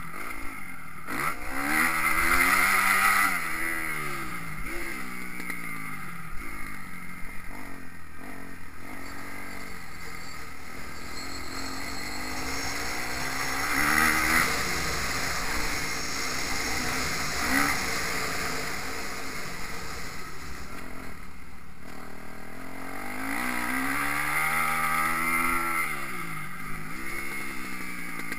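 Motocross bike engine revving hard and dropping back again and again as it works round the track, its pitch climbing and falling every few seconds, loudest in a few hard pulls. A steady low rumble of wind lies underneath.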